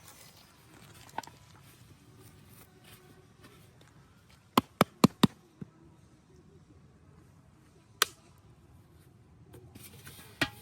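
Sharp knocks: a quick run of four about halfway through, then a single knock a few seconds later, over faint outdoor background.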